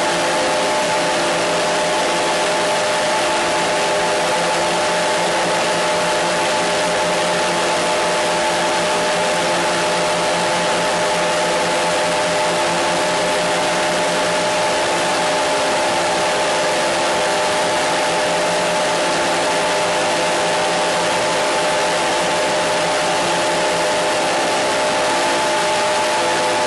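Steady, unchanging noise: a loud hiss with several steady hum tones beneath it.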